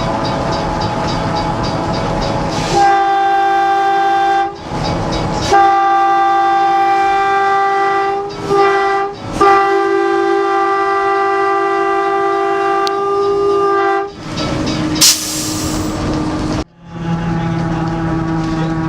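Steam locomotive whistle on the Strasburg Rail Road train sounding the grade-crossing signal: two long blasts, a short one and a final long one, over the steady running noise of the train. A brief sharp hiss follows soon after the last blast.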